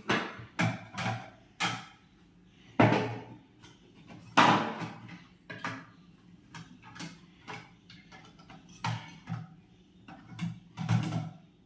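Plastic juicer parts being taken off a Sujatha mixer grinder and a jar set onto the base: a series of sharp plastic clicks and knocks, the loudest about three and four and a half seconds in.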